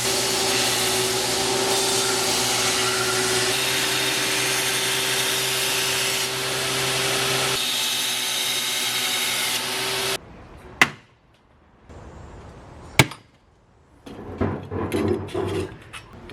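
A power grinder grinding metal, a steady loud whir that cuts off abruptly about ten seconds in. Two sharp knocks a couple of seconds apart follow, then a spell of irregular clattering near the end.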